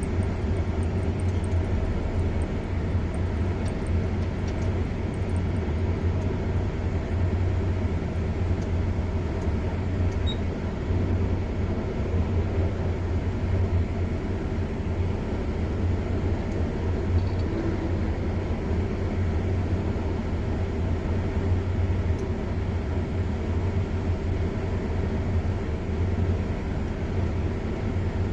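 A car being driven: steady engine and tyre noise with a strong low hum, even throughout.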